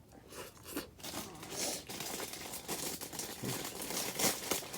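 Crinkling and rustling of something crinkly, such as plastic or a bag, being handled, in irregular bursts that pick up about a second in.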